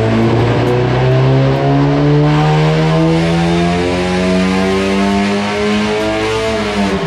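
Performance car engine held at high, fairly steady revs, with the revs falling away near the end.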